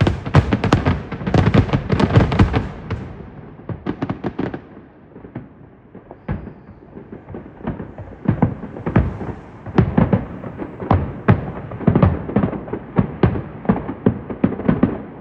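Fireworks going off in a rapid string of bangs and crackles. A dense barrage in the first few seconds thins out around the middle, then builds again with quick bangs to the end.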